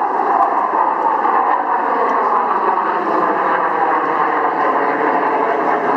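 Jet aircraft flying past: a loud, steady rushing engine noise that sinks slightly in pitch.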